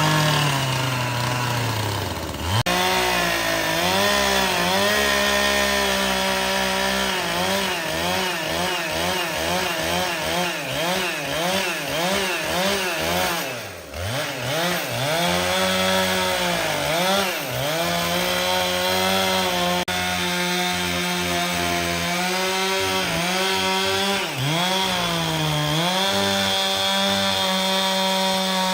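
Chainsaw engine cutting wood, its pitch swinging up and down about once a second as the revs rise and fall under load, with a few deep dips where it bogs into the cut. Near the end it holds a steady high speed.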